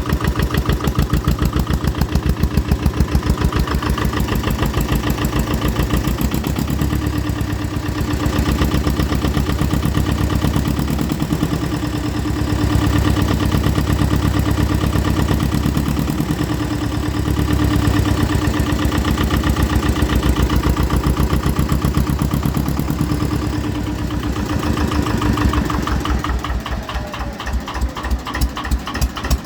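Lister Petter PH2 two-cylinder air-cooled diesel engine running steadily with a regular diesel knock, still cold after a cold start at minus two. In the last few seconds the beat slows into distinct separate firing pulses as it drops to a slower idle.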